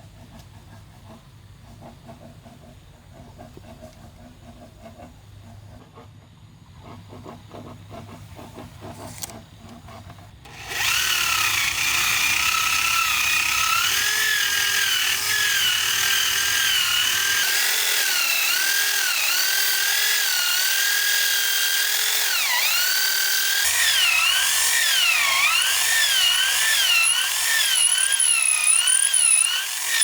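Electric drill starting about a third of the way in and running on, its whine wavering and dipping in pitch as it bores into bamboo. Before it there are only faint knocks over a low hum.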